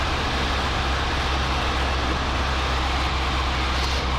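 Cessna 152's four-cylinder piston engine and propeller running at a steady drone, heard inside the cockpit with an even rush of air noise over it.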